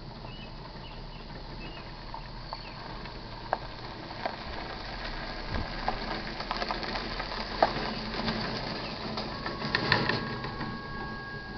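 An approaching iron ore freight train heard before it arrives: the rails tick and click more and more often as the noise slowly grows. Near the end a steady high ringing of two tones sets in. Faint bird chirps come early on.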